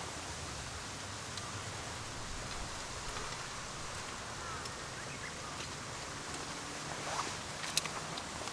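Steady outdoor background hiss with a few sharp ticks near the end.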